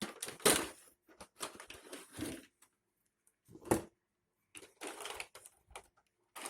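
Rustling and clicking of packaging being handled during an unboxing, in uneven patches with a brief silence about two and a half seconds in and one sharper noise near the middle.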